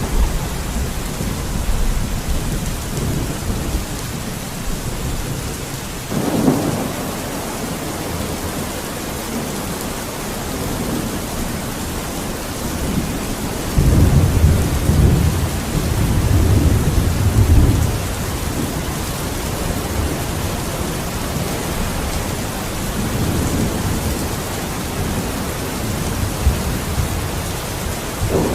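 Steady heavy rain with rolling thunder: a low rumble swells briefly about six seconds in, and a longer, louder rumble rolls from about halfway through for around four seconds.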